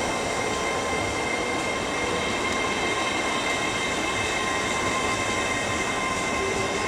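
Class 800 train pulling out of the station: a steady rumble of wheels on rail with a constant high whine over it.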